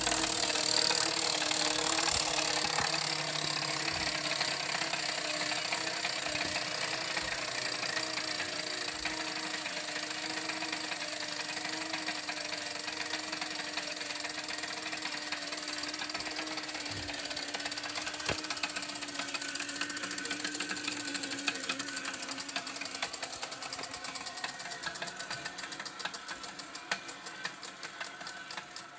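A mechanism whirring with rapid clicking. The sound slowly fades, and near the end the clicks grow sparser and more distinct, as if it is winding down.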